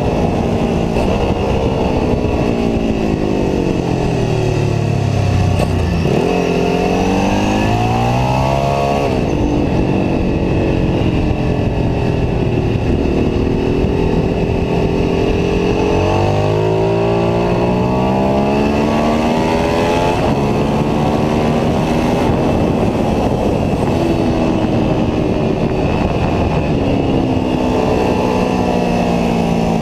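Ducati 749S's V-twin engine heard onboard at track speed, its pitch repeatedly dropping under braking and downshifts, then climbing hard through the gears. A constant rush of wind noise runs under it.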